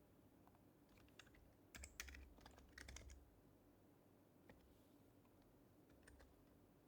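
Typing on an HHKB Professional HYBRID Type-S keyboard, whose quiet Topre switches give soft keystrokes. A quick flurry of keypresses starts about a second in and lasts about two seconds, followed by a few single keypresses.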